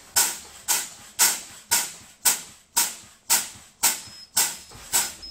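Bus air brakes being pumped down: the service brake pedal is fanned about twice a second, each stroke letting out a short hiss of air, ten in all. About four seconds in, the low air warning buzzer starts as a thin high beep, signalling the system has dropped to the low-pressure threshold, around 60 psi.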